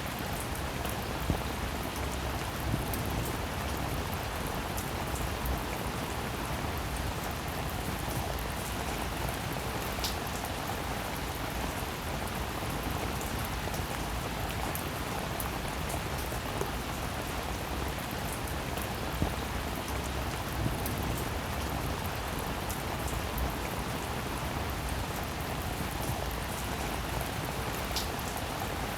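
Steady rain falling, an even hiss with scattered sharper drop taps, two of them standing out about ten seconds in and near the end.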